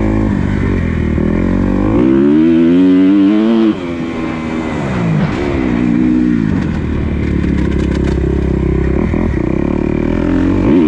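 Motocross dirt bike engine on the throttle, its pitch climbing hard and then dropping as the throttle is shut. This happens sharply a few seconds in, and the rise and fall repeats a few times after that.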